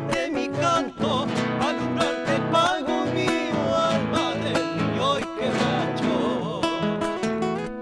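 Folk music on acoustic guitar, densely plucked and strummed, with a bending melody line over it.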